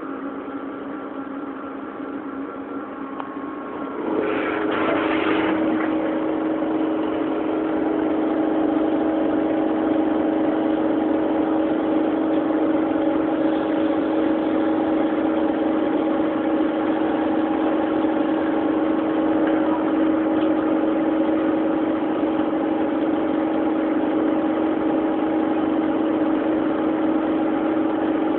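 Flat-bed CNC lathe running with a steady machine hum made of several tones. About four seconds in it gets louder and the hum moves up in pitch, with a brief burst of noise, as the spindle speeds up and cutting begins; then it runs evenly.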